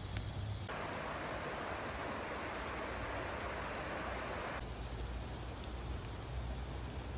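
Crickets trilling steadily in one high, thin continuous tone. Partway through, an even hiss rises over them for a few seconds and then cuts off abruptly.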